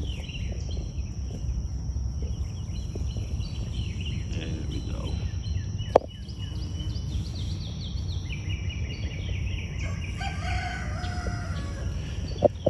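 A rooster crowing once, a long call about eight seconds in, with shorter bird chirps before it.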